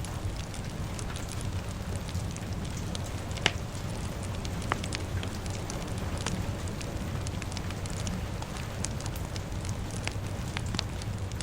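A crackling fire, with scattered sharp pops, over a steady wash of rain. The loudest pop comes about three and a half seconds in.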